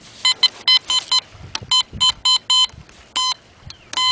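Metal detector giving short, same-pitched beeps in quick clusters as it is swept back and forth over a buried target that reads as a possible dime.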